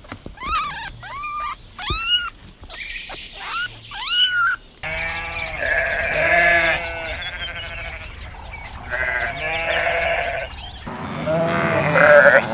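A few short, high chirping bird calls, then, after an abrupt change about five seconds in, repeated bleating from goats or sheep, several calls with a wavering pitch.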